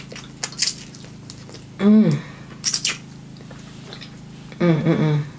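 Close-up eating sounds of a person chewing snow crab meat: a few wet clicks and smacks, with a short voiced "mmm" of enjoyment about two seconds in. A brief bit of voice comes near the end, over a faint steady hum.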